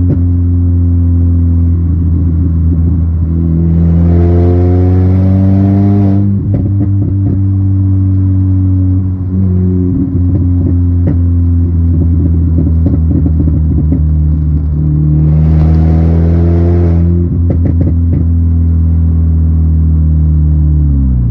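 Straight-piped exhaust of an R53 Mini Cooper S's supercharged 1.6-litre four-cylinder engine, idling and revved twice for about two seconds each. Each rev is followed by a run of pops and crackles from the exhaust as the throttle closes. The engine note drops steeply at the very end.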